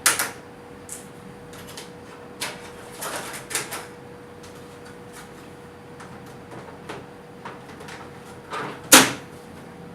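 Plastic clicks, scrapes and rattles as the air filter is slid into a mini split indoor unit and its front cover is handled, with a loud snap near the end as a part clicks into place. A faint steady hum runs underneath.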